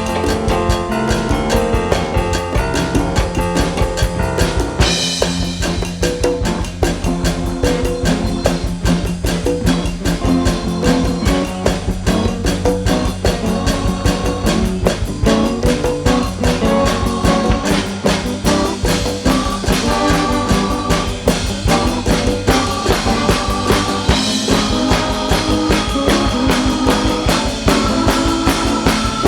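Live band playing an instrumental groove with drum kit, bass and guitar; a cymbal wash comes in about five seconds in.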